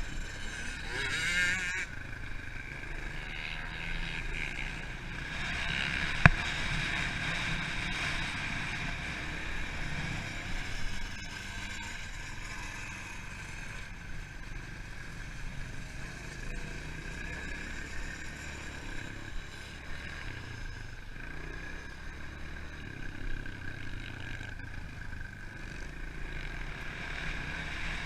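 Pit bike engine running steadily as the bike is ridden, with one sharp knock about six seconds in.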